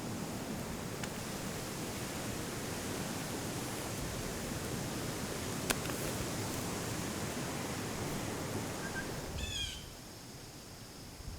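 Steady outdoor background noise with a faint click about halfway through. Near the end a bird gives a short call of a few quick falling notes, and the noise drops to a quieter hush.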